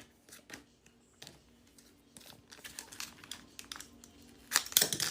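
Foil booster-pack wrappers crinkling and cards being handled, faint scattered crackles with a louder burst of crinkling near the end.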